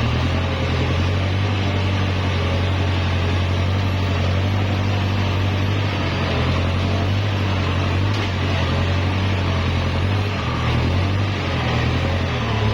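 Kubota L5018 tractor's diesel engine running steadily at about 1,400–1,500 rpm, a constant low hum.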